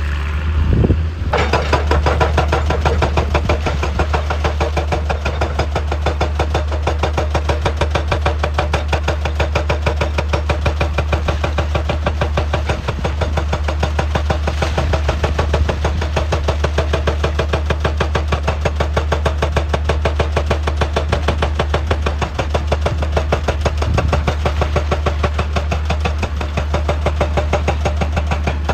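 Heavy diesel machine running steadily under a hydraulic percussion hammer working rock. The hammer starts about a second in and strikes in a fast, even, rapid-fire rhythm.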